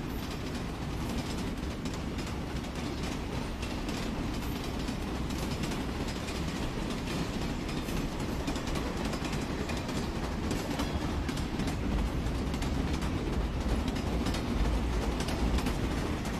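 Train running on rails: a steady rumble with an irregular clatter of wheels over the track, growing slightly louder near the end.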